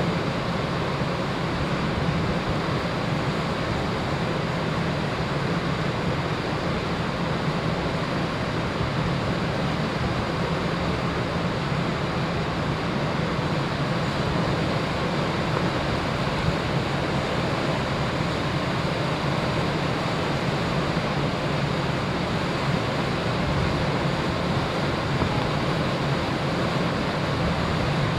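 Steady rush of wind and sea water against a ferry under way, over a low, even hum from the ship's engines.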